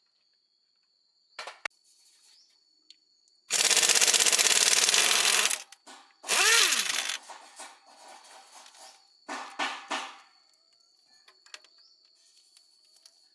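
Tool noises: a loud rapid rattling burst lasting about two seconds, a shorter burst just after, then another short burst and scattered clicks and knocks.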